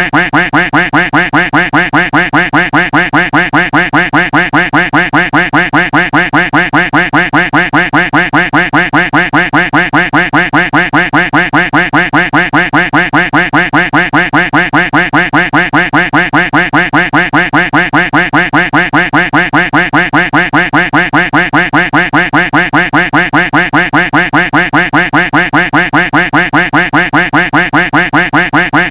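A duck quack sound effect repeated over and over without pause, about three or four quacks a second.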